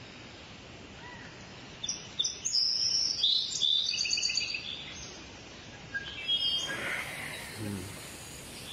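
A songbird singing a run of clear, varied, high chirping phrases, starting about two seconds in and lasting about three seconds, with a few shorter chirps later, over a steady outdoor background hiss.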